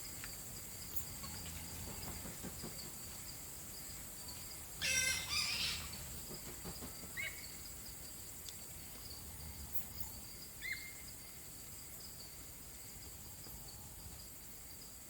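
Steady high-pitched insect drone, with a short, loud bird call about five seconds in and a few brief chirps later on.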